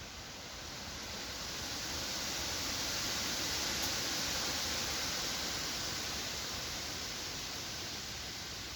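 Wind blowing through forest trees, a gust that builds over the first few seconds and then slowly dies down.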